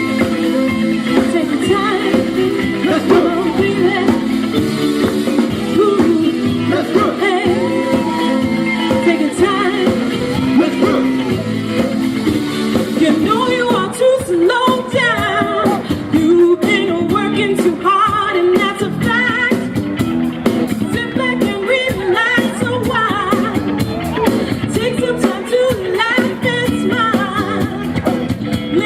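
A live band playing a pop-rock song. The first half is instrumental, and a singer's voice comes in about halfway through.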